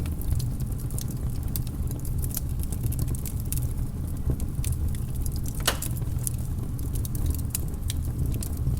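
Crackling fireplace fire: a steady low rumble under frequent small snaps and pops, with one louder pop a little past the middle.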